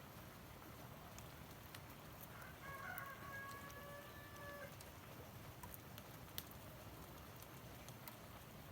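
A faint rooster crowing once, a held call of about two seconds near the middle, over a low background with a few scattered light ticks.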